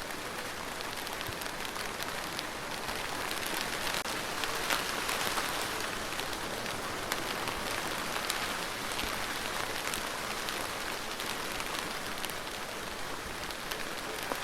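Steady rain falling on a surface, with sharp ticks of individual drops through the hiss; it swells a little about four seconds in.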